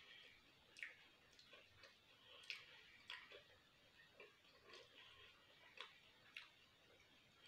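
Close-miked mouth sounds of someone chewing pizza with the lips closed: faint, irregular clicks and smacks, about one or two a second.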